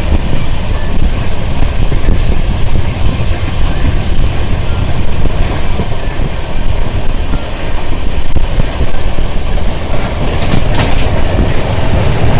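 Running noise of a moving passenger train: a loud, steady rumble of wheels on the track.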